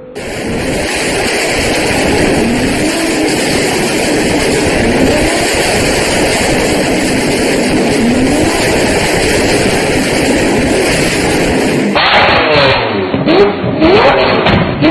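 Car engine accelerating hard, its pitch climbing in repeated sweeps as it pulls up through the gears. About twelve seconds in it cuts to a different engine being revved in short, sharp blips.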